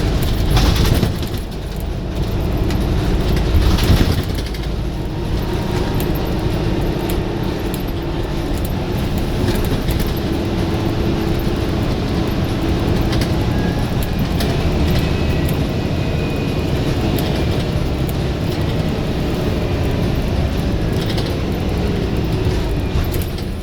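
Scania bus's diesel engine running hard under load, a continuous drone with brief louder jolts about a second in and again around four seconds in, and a faint high whine partway through.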